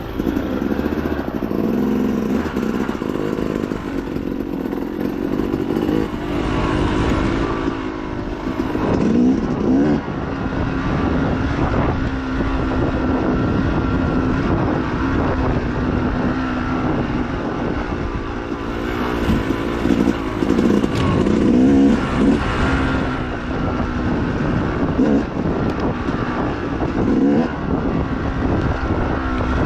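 Dirt bike engine running hard, its pitch holding steady for stretches and rising and falling several times as the throttle is worked, with frequent short knocks and rattles over it.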